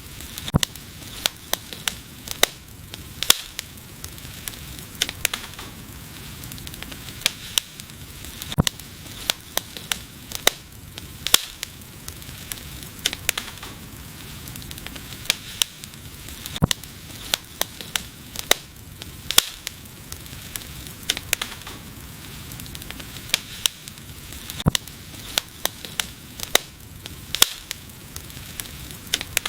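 Wood fire burning with irregular crackles and sharp pops, several a second over a steady hiss.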